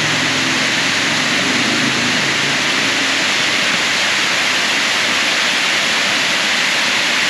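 Waterfall pouring into a pool: a loud, steady, unbroken rush of falling water.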